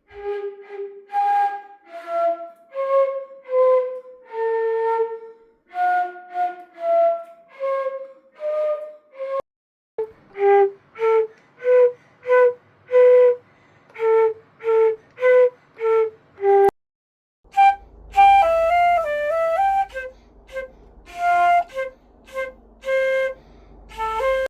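Solo flute playing short melodic passages in three separate takes: a slow, legato phrase, then a run of short detached notes, then a quicker phrase with a low hum underneath.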